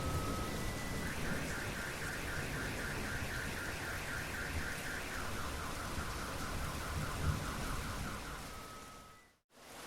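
Car alarm going off over steady rain, cycling through its tones: a fast warble of about five pulses a second, then a lower warble, then a steady tone, before the sound fades out briefly near the end.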